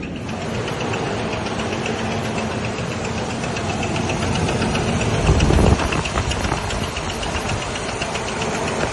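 2000 Ford Ranger XLT engine running with a rapid, regular ticking knock, the engine noise that the owner says comes neither from the crankshaft nor from the camshaft. About five seconds in there is a brief louder low rumble.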